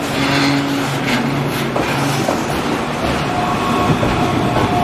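Loaded container flatcars of a freight train rolling past close by, steel wheels clacking over rail joints a few times in the first two seconds, over a steady rumble of rolling wheels. A faint thin whine joins about three seconds in.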